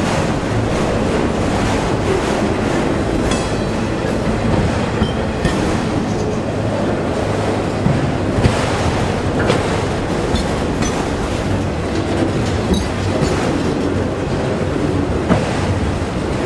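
CSX freight train of autorack cars rolling past at close range: a steady rumble of steel wheels on rail, with occasional sharp clicks and knocks from the wheels.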